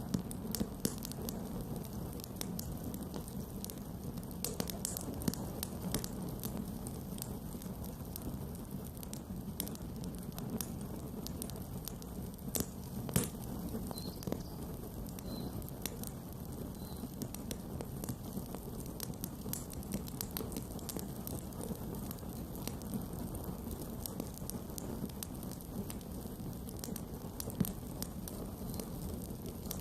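Campfire burning: a steady low rush with frequent small crackles and pops, and a sharper pop about 13 seconds in and another near the end.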